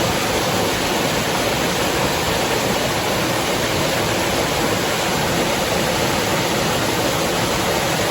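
Flowing river water: a steady, even rushing.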